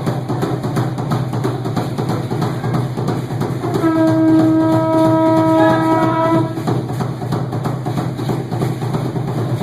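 Dance music blasting from a sonidero sound system with a dense steady beat. About four seconds in, a long horn-like blast on a single pitch sounds over it for about two and a half seconds.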